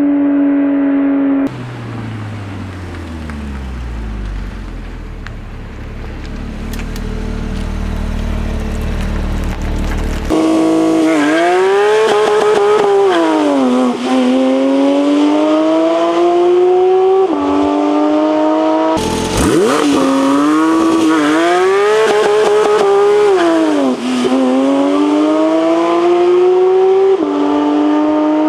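Porsche 992 GT3's 4.0-litre naturally aspirated flat-six running, its exhaust note rising and falling in pitch with the revs. In the first third it is quieter and its pitch slides steadily down, then it comes back louder with repeated climbs and drops in pitch.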